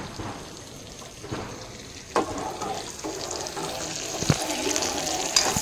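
Cauliflower florets frying in oil in a large kadhai: a steady sizzle that grows louder in the second half. A few sharp knocks of a metal spatula against the pan sound over it.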